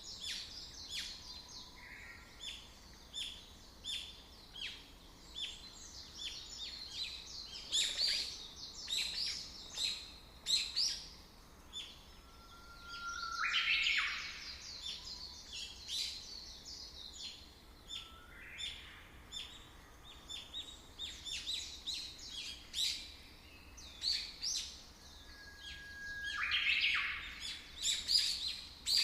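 Birds chirping: many short, high notes in quick succession, with a longer rising call about halfway through and another near the end.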